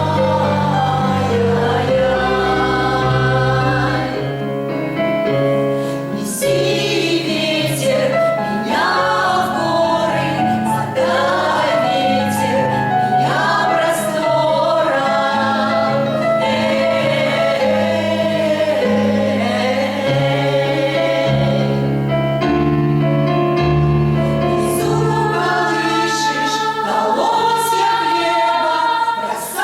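A choir singing a song with accompaniment, held bass notes changing beneath the voices.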